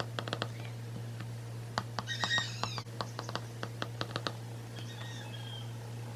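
Computer keyboard typing in irregular clicks over a steady low hum. About two seconds in, a short, high, chirping call cuts across it, and a fainter one follows near the end.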